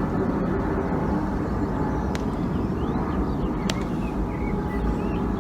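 Steady outdoor background rumble, heaviest in the low end, with two faint clicks and a few faint high chirps in the second half.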